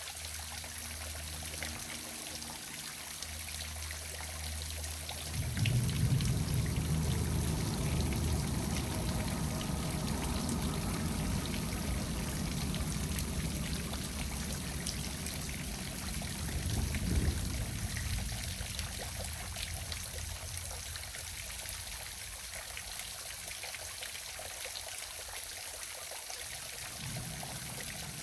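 Waterfall splashing and pouring steadily. A low rumble comes in about five seconds in and fades away after about twenty seconds.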